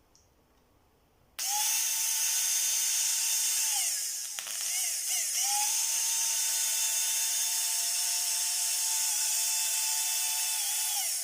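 Small brushed electric power-tool motor, freshly rebuilt with new brushes, test-run twice: it spins up about a second and a half in to a steady high whine, stops briefly with a click around four seconds in, then spins up again and runs until it winds down near the end.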